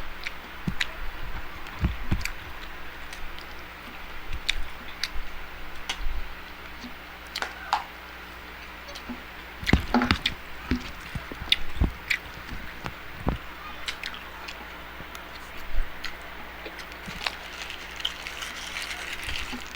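Close-miked eating: wet chewing and mouth sounds, with scattered clicks and taps and a few louder knocks about halfway through.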